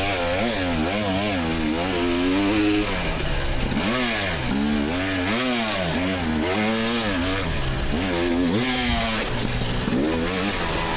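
Single-cylinder 300 cc two-stroke engine of a 2024 GasGas EX300 dirt bike, revving up and falling back over and over as the throttle is opened and closed through the course.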